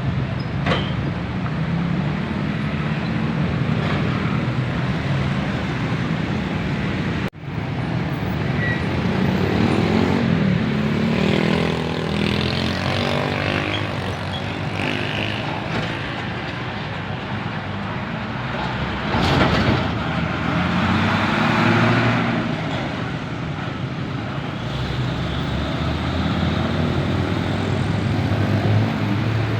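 Heavy trucks driving past on a road, diesel engines running with tyre and traffic noise that swells as vehicles pass, twice in the middle stretch. The sound drops out abruptly for an instant about seven seconds in.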